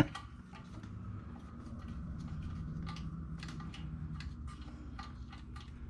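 Scattered faint clicks and taps of hand tools on a small engine's metal parts, over a low steady hum.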